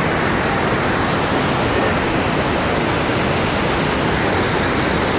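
Låtefossen, a twin waterfall, giving a loud, steady rush of falling water.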